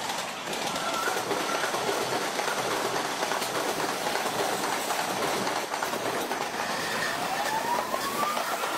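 Electric commuter train rolling close past over a junction of points, its wheels rumbling and clattering on the rails. A whine rises in pitch near the end and then holds steady.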